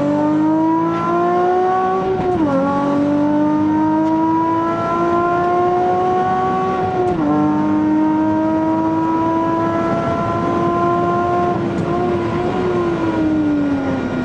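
Nissan Fairlady Z's V6 engine heard from inside the cabin, accelerating hard up through the gears with quick upshifts about two and a half and seven seconds in. The note then holds high and falls away near the end as the car lifts off for a corner.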